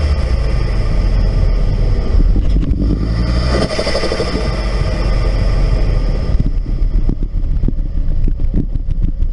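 Ford 2.5-litre turbocharged five-cylinder engine revving, heard through a Turbosmart recirculating compressor bypass valve and an open cold air intake. A high induction whistle rises twice, with a brief drop between, and fades about six seconds in, after which the running turns rougher and choppier.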